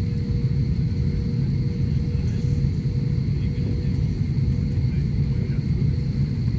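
Steady low rumble of an airliner during landing, with a faint steady hum over it.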